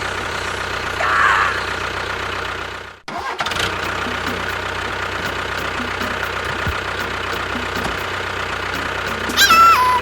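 Engine running steadily, with the sound dropping out briefly about three seconds in and then resuming. Near the end comes a short pitched sound that falls in steps.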